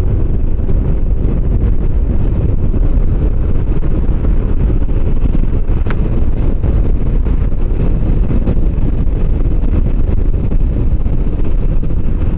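Wind noise on the microphone of a moving motorcycle, with the bike's engine running steadily underneath. There is a single sharp click about six seconds in.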